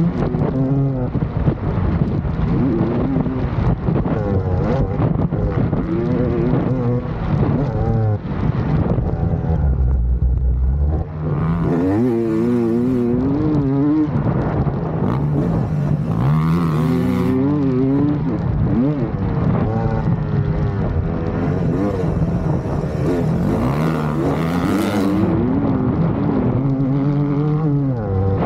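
Motocross bike engine revving up and down over and over as the rider works the throttle around the track, with bursts of wind noise on the microphone.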